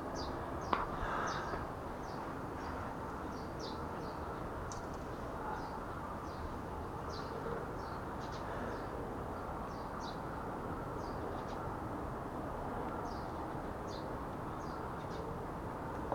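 Small birds chirping, many short high calls repeated at irregular intervals over a steady low background noise.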